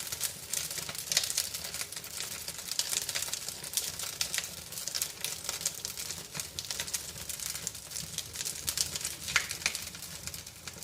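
Freshly lit wood fire of birch bark and kindling crackling in an outdoor barbecue fireplace's firebox, with many small irregular pops and snaps over a faint steady rush of the burning.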